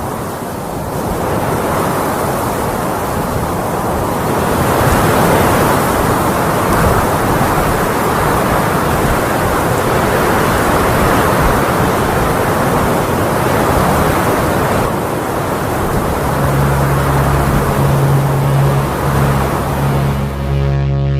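Strong wind gusting and rushing as a steady loud noise, buffeting the microphone. Music with low sustained tones fades in near the end.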